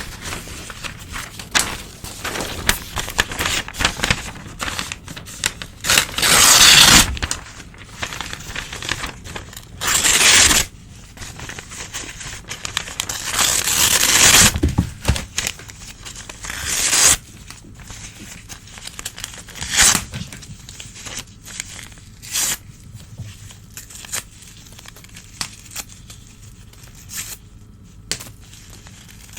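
Old newspaper being torn by hand, in several long rips with crinkling and rustling of the sheets in between; the rips come less often and the handling grows quieter in the second half.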